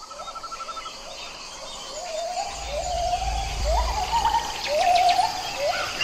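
Forest ambience of bird calls. A fast trill opens, then one call repeats about once a second, each a quick upward swoop into a short held note, over fainter high chirping. A low rumble sounds for a couple of seconds in the middle.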